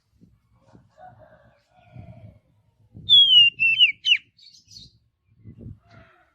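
Oriental magpie-robin (kacer) singing: one loud whistled phrase about three seconds in, a falling whistle broken into quick, sharp up-and-down notes, with softer high notes just after it. Faint low rumbles come and go.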